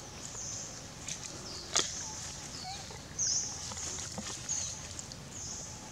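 A bird's repeated short, high-pitched chirps, each dropping in pitch at its end, coming every half second to a second. A single sharp click or snap sounds about two seconds in.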